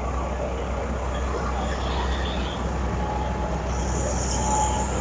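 Heavy engines rumbling steadily with road noise, with a thin faint whine heard twice in the second half.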